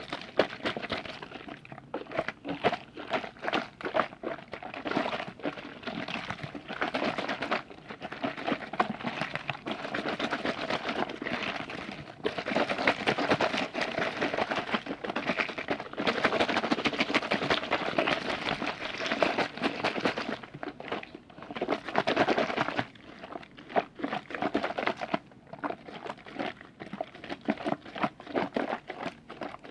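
Close-miked liquid being handled for ASMR: a dense run of small wet clicks and crackles that thickens and thins in stretches.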